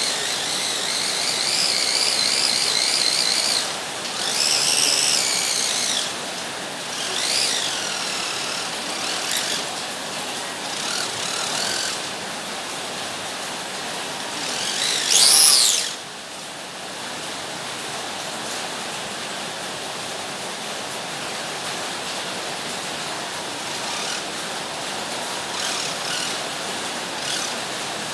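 Electric motors of radio-controlled toy cars whining as they speed up and slow down, several times over, over a steady rolling noise. The loudest rising whine comes about halfway through, and after it only a quieter steady running noise remains.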